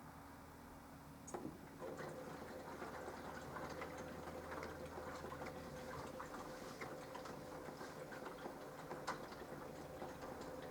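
Minicolo mini washing machine mid-wash: a click a little over a second in, then a steady hum starts, with a faint patter of small ticks and crackles over it.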